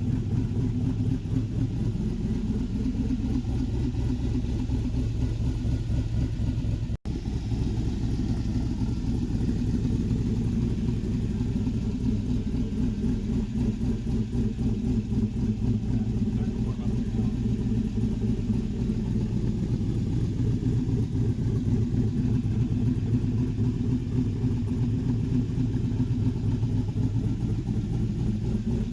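A 2008 5.3L LC9 aluminum-block LS V8 fitted with a Stage 2 camshaft, running steadily on an engine run stand. It idles with slight rises in speed, and the sound drops out for an instant about seven seconds in.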